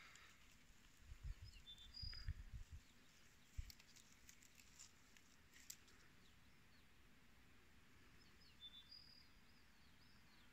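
Near silence of an open meadow with a faint hiss. A small bird gives short high chirps about a second and a half in and again near the end. A few low bumps come in the first few seconds.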